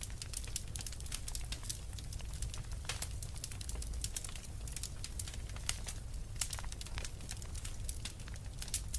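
Wood fire burning in a fireplace: irregular sharp crackles and pops, many a second, over a steady low rumble of the flames.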